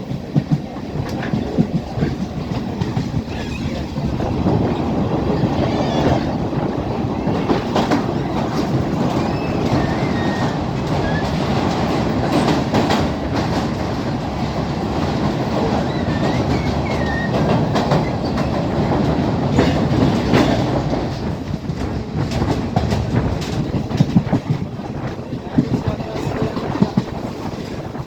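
Class S12 diesel multiple unit running along the line: a steady rumble with wheels clattering over the rail joints and occasional knocks. It grows louder a few seconds in and eases off near the end.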